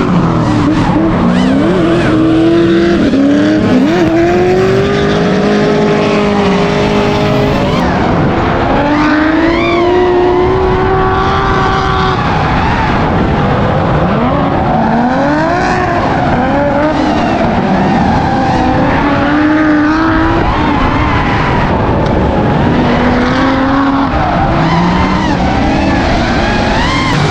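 Car engines revving hard, their pitch climbing and dropping again and again, with more than one engine at times. Tyre squeal runs underneath.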